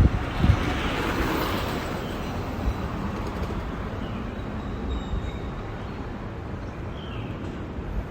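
Outdoor street ambience heard from a moving bicycle: a steady wash of noise that swells about a second in, with low wind buffeting on the microphone at the very start and a few faint, short bird chirps later on.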